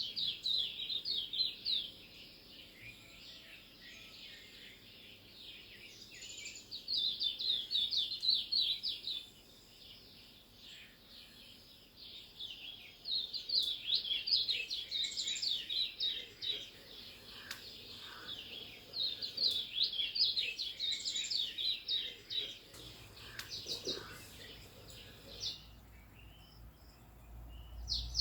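Small birds chirping: bouts of rapid, high chirps a few seconds long, repeating about every six seconds over steady background twittering.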